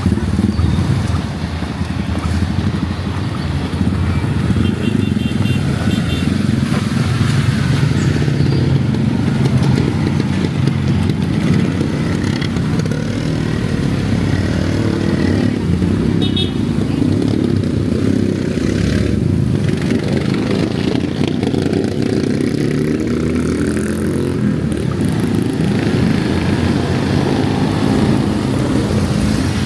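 City street traffic, dominated by motorcycle engines running and passing close by, over a steady hiss of heavy rain.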